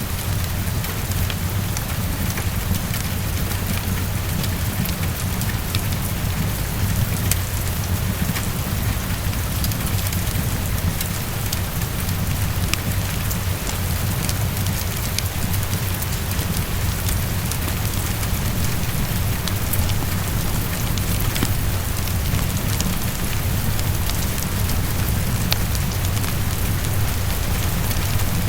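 Heavy rain on a window: a steady hiss with a low, even rumble underneath, dotted with many small sharp ticks, blended with the crackle of a fireplace.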